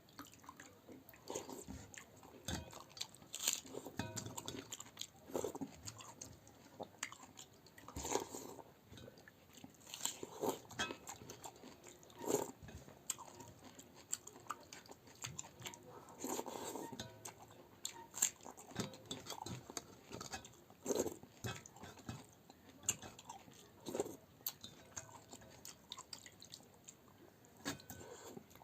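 A person eating pakhala bhata (fermented water rice), close to the microphone: irregular bouts of chewing and biting with crunches, a few every second or two.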